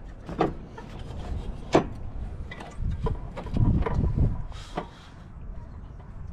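Scattered clicks and knocks of tools and metal parts being handled during a fan clutch job, with one sharp click about two seconds in and a low rumbling stretch around four seconds.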